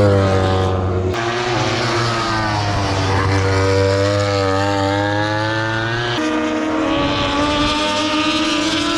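Electric MotoE racing motorcycles whining at race speed, the pitch of their motors rising and falling as they accelerate and brake. The sound changes abruptly twice, at about one second and about six seconds in.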